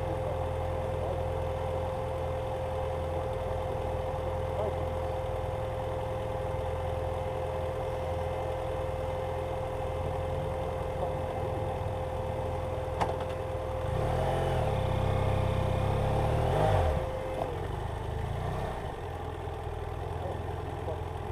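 BMW F800GS Adventure's parallel-twin engine running steadily, growing louder for about three seconds starting around two-thirds of the way in.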